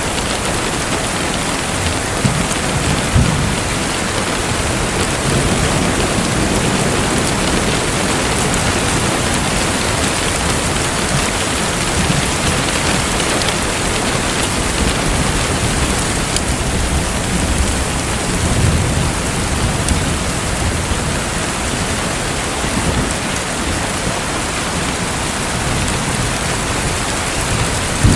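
Steady rushing, splashing water noise, with a few low rumbles swelling up and fading.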